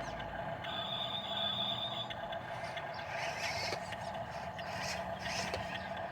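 Heavy diesel machinery running steadily while piçarra gravel is loaded into a Mercedes dump truck, with a high whine in the first couple of seconds and irregular scraping, grating noises of the fill in the second half.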